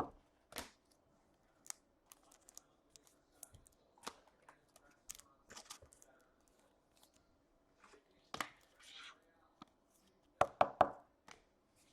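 Trading card packs being torn open and the cards handled: scattered short crinkles, clicks and taps, with a louder cluster of rustling about ten and a half seconds in.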